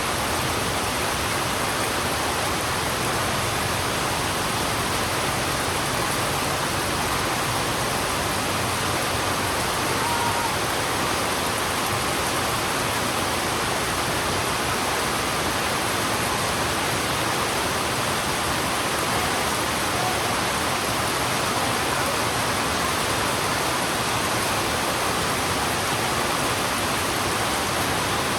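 Heavy rain pouring steadily on a road, an even, unbroken hiss.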